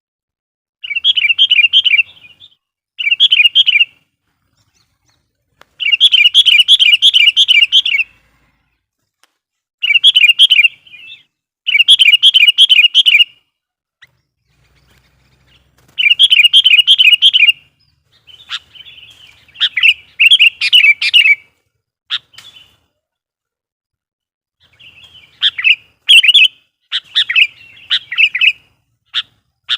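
Sooty-headed bulbul (kutilang) calling vigorously: a series of phrases of rapid repeated notes, each one to two seconds long with short pauses between. The calls turn into shorter, scattered chirps in the last several seconds. This is the insistent 'gacor' calling used as a lure call to rile wild bulbuls.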